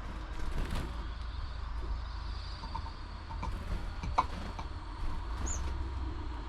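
Outdoor feeder ambience: a steady low rumble of distant traffic, a scattering of light taps and clicks, and one short high bird chirp about five and a half seconds in.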